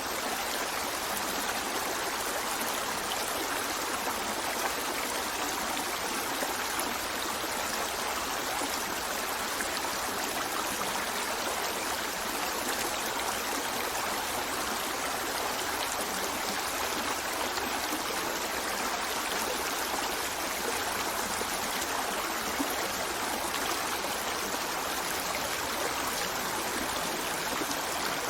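A stream running steadily over rocks, a constant rush of water.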